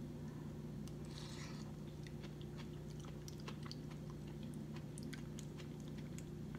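A person chewing a mouthful of chili, with faint wet mouth clicks, while a metal fork scrapes and taps in a paper bowl to scoop the next bite.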